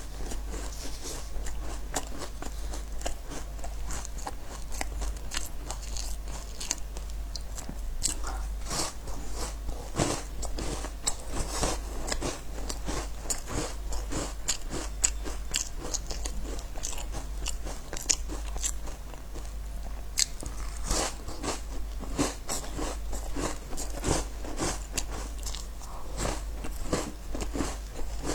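Close-miked crunching and chewing of crisp biscuits: many sharp, irregular crackly bites and chews follow one another.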